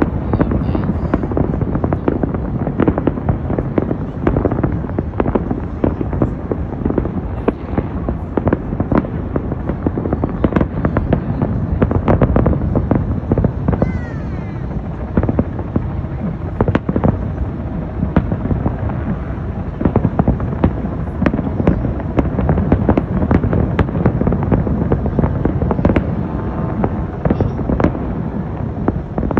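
Professional aerial fireworks display: a dense, unbroken barrage of booms and crackling bursts, many shells going off close together.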